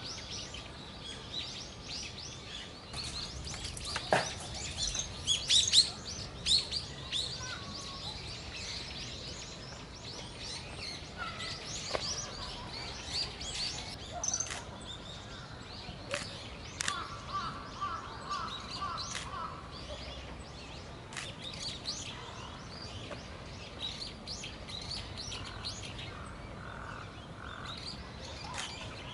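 Common kingfisher calling: many short, sharp, high-pitched whistled calls, thickest and loudest about four to seven seconds in. A brief run of lower, quicker notes comes past the middle.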